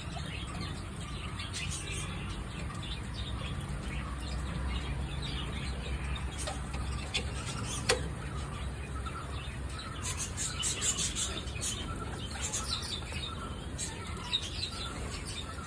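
Small birds chirping: many short, high chirps that come thickest about ten to thirteen seconds in, over a low rumble, with one sharp click about eight seconds in.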